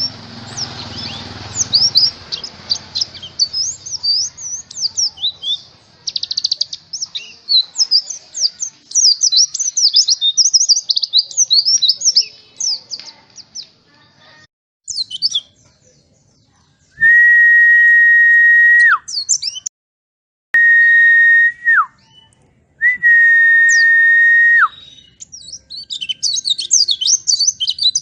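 White-eyes (pleci) chattering in fast, high, twittering chirps. The chirping thins out midway, and three long steady whistle tones, each ending in a falling drop, come in its place before the twittering picks up again near the end.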